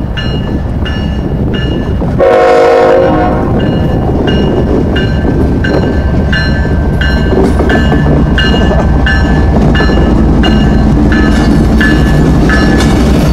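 CSX diesel locomotives rumbling past at close range as the train pulls out. The locomotive bell dings steadily about twice a second, and the horn sounds one short blast about two seconds in.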